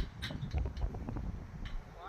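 Gusting wind buffeting the microphone in a low rumble, with scattered sharp ticks and taps.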